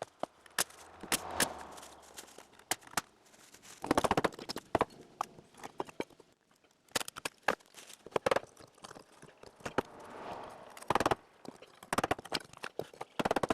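Irregular sharp knocks and thumps of a treated 2x4 framing board being nailed and knocked into place, with two short rapid clusters of blows, a few seconds in and near the end.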